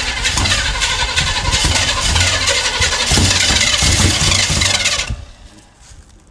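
Big-block Chevy V8 in a 1965 Pontiac GTO, loud and rough as it is being started, cutting off abruptly about five seconds in.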